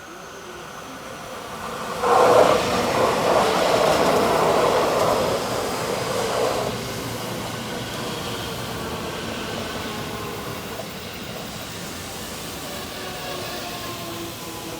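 JR West local electric multiple-unit train running into the station. A loud rush of wheel and body noise swells about two seconds in and eases after a few seconds. The motor whine then slowly falls in pitch as the train brakes.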